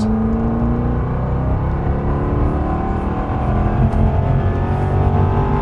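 Jaguar F-Type SVR's supercharged V8 pulling hard under full throttle out of a corner, heard from inside the cabin, its pitch climbing steadily.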